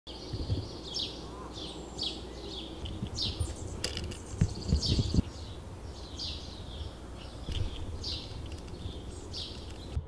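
A songbird chirping over and over, short high calls that slide downward about twice a second, over a low outdoor rumble with a few heavy low thumps about halfway through.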